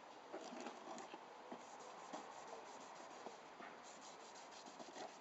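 Faint, steady scratchy rubbing of a grimy plastic train button being wiped clean by hand.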